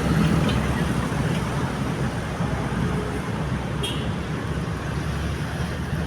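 Road traffic at a railway level crossing: a steady wash of engine and tyre noise from passing vehicles that eases off slightly, with one short sharp tick about four seconds in.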